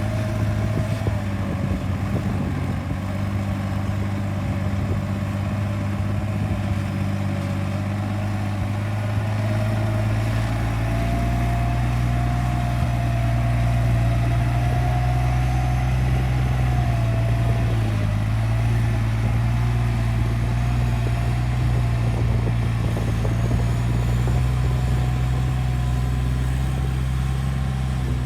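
Hyundai bulldozer's diesel engine running steadily, getting a little louder about ten seconds in, with a whine above it that wavers in pitch.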